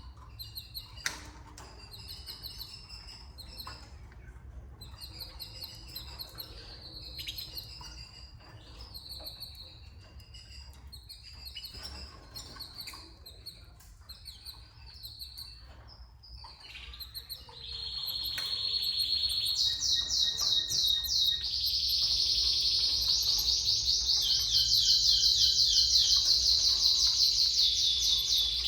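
Canaries chirping with short scattered calls, then about 18 seconds in a loud, rapid trilling canary song starts and runs on.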